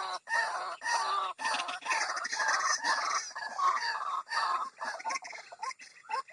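White-breasted waterhen (ruak-ruak) calls, a rapid series of repeated pitched notes at about two a second. This is the call used as a lure to draw waterhens out of cover.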